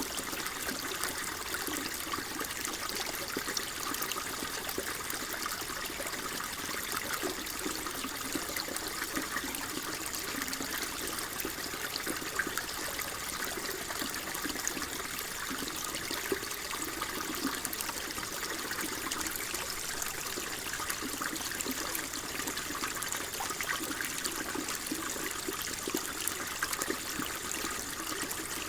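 Water flowing and trickling steadily, an unbroken babble of small splashes.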